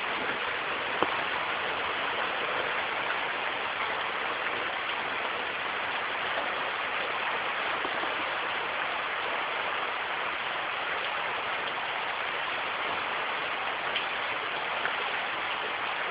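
Steady rain falling, an even hiss with no thunder heard, and a single sharp tap about a second in.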